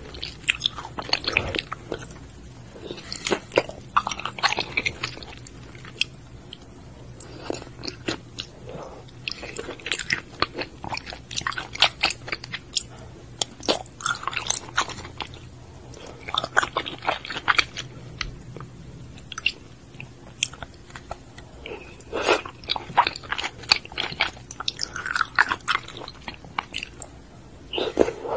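Close-miked wet chewing and mouth sounds of someone eating raw oysters, with irregular sharp clicks and smacks in bouts separated by short lulls.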